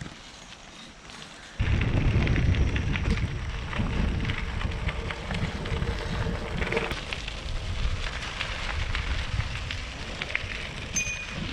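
Riding a bicycle: wind buffeting the microphone with crackling tyre noise on the path, starting suddenly a second or two in as the ride gets under way.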